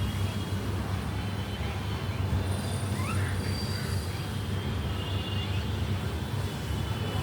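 Birds chirping with short high whistled notes and a few quick rising calls about three seconds in, faint against a loud steady low rumble.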